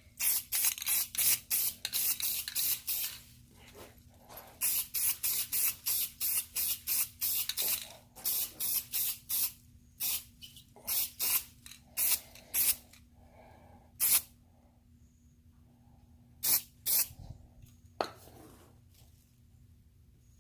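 Rust-Oleum matte black aerosol spray can fired in short hissing bursts, about four a second at first, then sparser single puffs, dusting on a light feathered coat of paint. A faint steady hum runs underneath.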